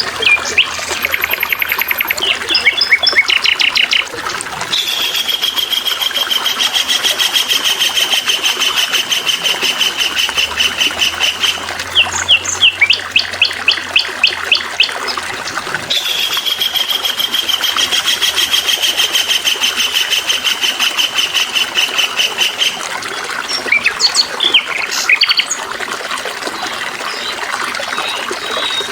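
A songbird singing over steadily trickling water: two long, fast, even trills of about seven seconds each, with a run of sharp chirps between them and more short calls near the start and end.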